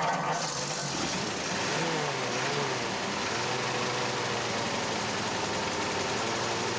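1935 Ford flathead V8 engine, just started, running: the revs rise and fall briefly about two seconds in, then it settles into a steady idle.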